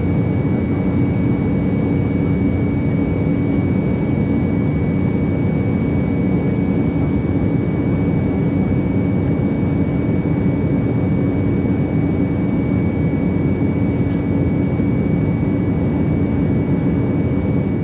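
Steady jet noise heard from inside the cabin of an Embraer 190 airliner: the even rush and drone of its General Electric CF34 turbofan engines, with a constant low hum and a thin, steady high whine.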